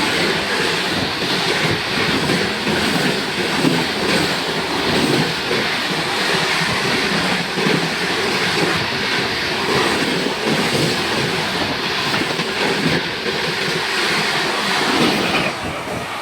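Express passenger train passing at speed: a steady loud rush of wheels on rail and carriages going by, which falls away suddenly near the end as the last coach clears.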